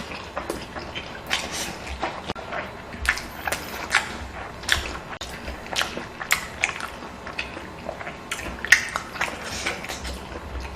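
Close-up eating sounds: a person chewing and biting, with irregular sharp mouth clicks a few times a second.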